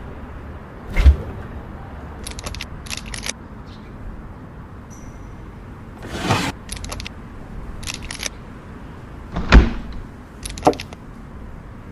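Kitchen items being handled and put away: two dull thuds of things being set down, several quick clusters of light clicking rattles, and a brief rustle.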